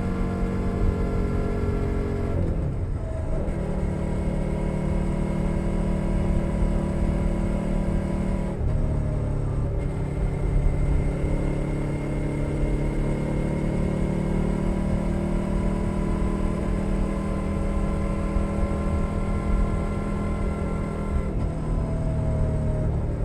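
2021 Suzuki SV 650's 90-degree V-twin running under way through a Leo Vince Nero exhaust, heard from under the seat. Its steady note breaks and settles at a new pitch about three seconds in and again around nine seconds.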